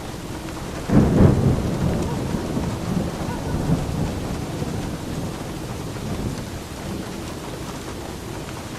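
Steady rain with a clap of thunder that breaks in about a second in, loudest at first and rumbling away over several seconds.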